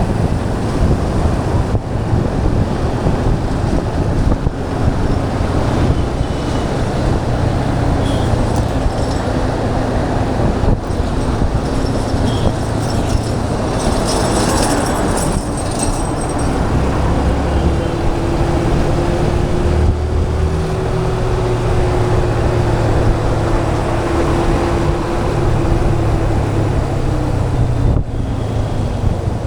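Motorcycle engine running steadily while riding through road traffic, with wind rushing over the microphone; the engine pitch shifts with speed, and a brief higher-pitched sound passes about halfway through.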